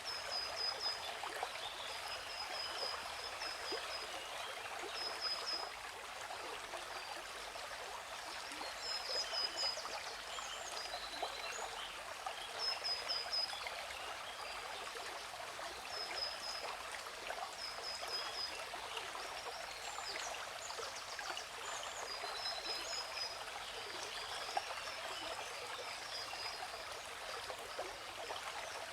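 Waterfall rushing in a steady hiss, with birds chirping over it in short quick runs of high notes every couple of seconds.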